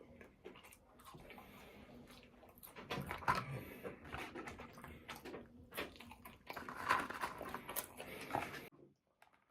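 Close-miked eating: chewing and biting with wet mouth clicks and smacks. It stops abruptly near the end.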